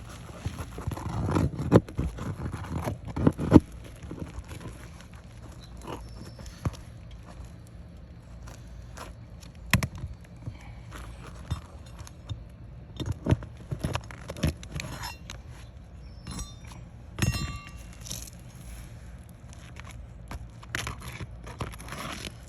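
Pry bar scraping and clicking against asphalt shingles and a roofing nail as the nail is pried out from under an overlapping shingle: a dense spell of scraping in the first few seconds, then scattered sharp knocks and scrapes.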